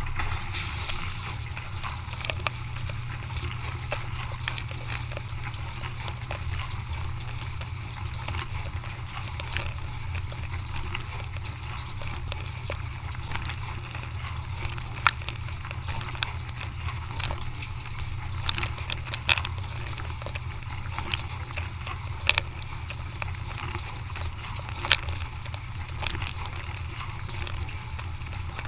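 Dishwasher running: a steady low pump hum under water spraying and sloshing inside the tub, with occasional sharp clicks.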